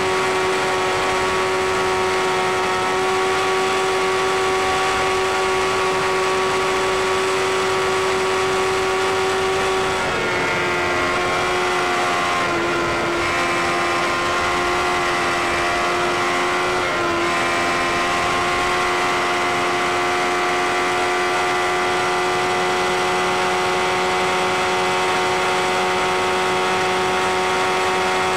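Sport motorcycle engine held at high, steady revs at motorway speed, over a steady rush of wind noise. About ten seconds in the revs dip a little, dip again a couple of seconds later, then climb back to the same steady note about seven seconds after that.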